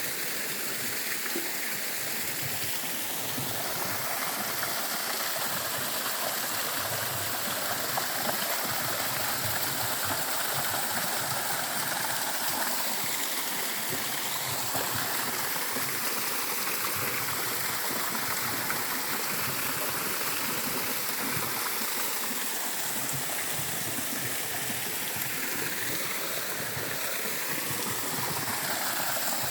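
Small cascading waterfall, water rushing and splashing over rocks in a steady, even rush.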